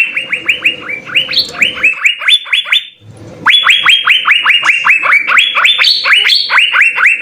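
Asian fairy-bluebird (cucak biru) calling in a rapid string of sharp, rising whistled notes, about five a second, in two bursts broken by a short pause about three seconds in.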